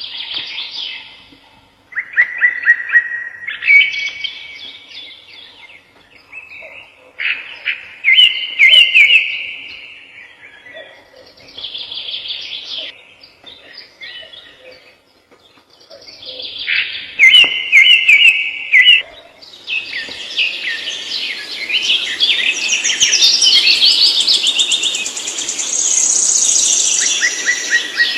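Songbirds singing: short phrases of rapid, trilled notes repeated every few seconds, with a denser, higher twittering chorus joining in the second half.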